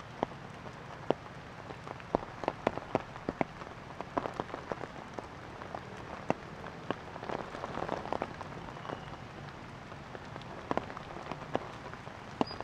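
Raindrops striking leaves and the ground: irregular sharp ticks, some loud, several a second at times, over a steady hiss.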